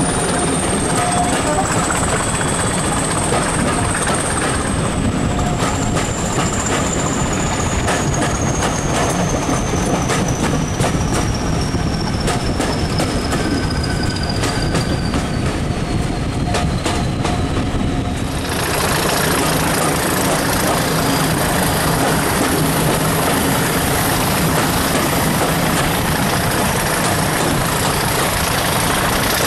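Passenger coaches running along the line, heard from an open carriage window: a steady rumble of wheels on rail mixed with rushing air. A faint high whine slowly falls in pitch over the first eighteen seconds, and the sound changes abruptly about eighteen seconds in.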